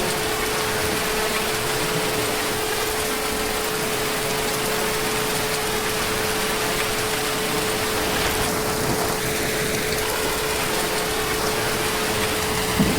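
Heavy rain falling, a steady even hiss, with a thin steady tone running underneath it.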